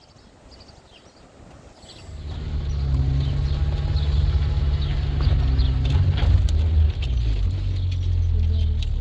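An engine starts running about two seconds in: a loud, low, steady hum that drops slightly in pitch near the end.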